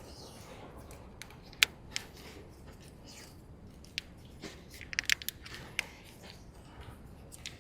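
Sharp snips and clicks of hand work on a car's wiring harness, a handful of them at irregular intervals, the loudest about one and a half seconds in and a quick cluster about five seconds in.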